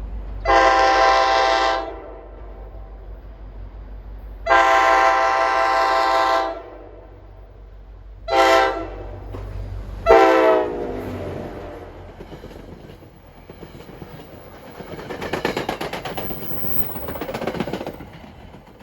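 Nathan K5LA five-chime air horn on an NJ Transit diesel locomotive sounding the grade-crossing signal: two long blasts, one short, then a long one whose pitch drops as the locomotive passes. The low rumble of the diesel fades, followed by the clatter of the train's wheels going by.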